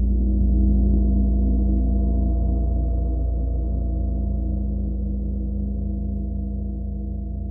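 A gong ringing on with a deep, layered hum of many steady tones over a low rumble, swelling briefly near the start and then fading slowly.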